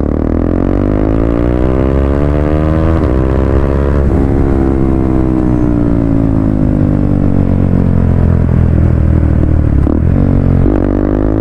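KTM Duke 390's single-cylinder engine through a loud exhaust, revving up with two quick gear changes in the first few seconds. The revs then fall slowly for several seconds as the throttle is rolled off, and climb again with another shift near the end.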